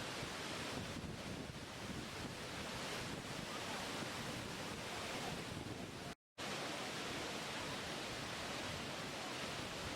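Steady rushing water, an even, unbroken wash of noise, cut off completely for a split second a little past six seconds in before it resumes.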